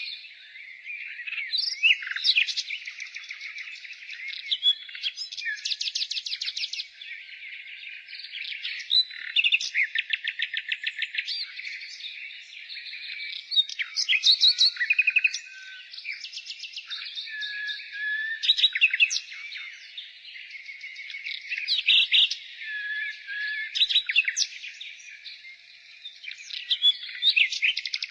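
Nightingale singing: a string of varied phrases, many built from fast runs of repeated notes and some from short whistles, with brief pauses between phrases.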